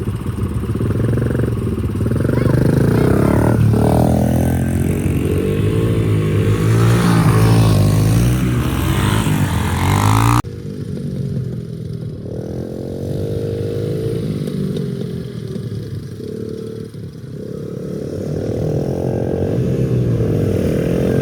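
Small dirt bike engine running, its pitch rising and falling repeatedly as the throttle is opened and closed. The sound changes abruptly about halfway through, after which the engine again rises and falls in pitch.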